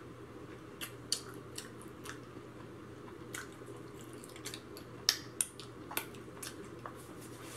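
Close-miked chewing of soft fried okra: irregular wet mouth clicks and smacks, a few louder ones about five to six seconds in.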